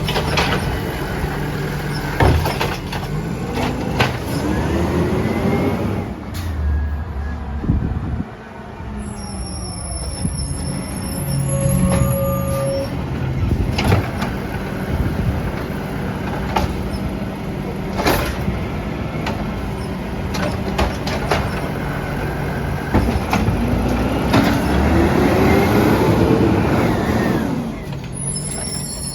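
Peterbilt 320 garbage truck running, its engine revving up twice with a long rising pitch, with sharp knocks in between.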